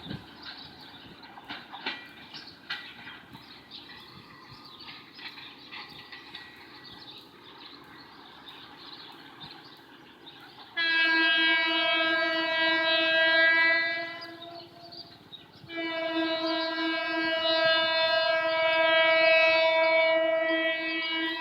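Diesel locomotive's air horn sounding two long blasts, the first about halfway in and the second a couple of seconds later, running to the end. Before the horn there is a stretch of light clicking and rattling.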